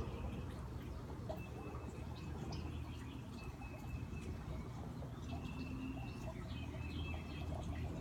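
Songbirds calling with short, thin, high whistled notes, a few to a second at times, over the steady low rush of a backyard fountain.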